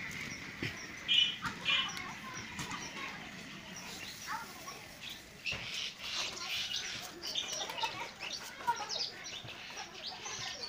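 Birds chirping over and over in short high notes, with two louder calls a little over a second in.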